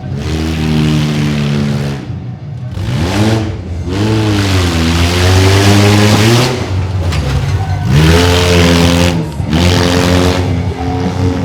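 Mini monster truck engine revving hard in repeated bursts, its pitch climbing and dropping about five times as the driver works the throttle.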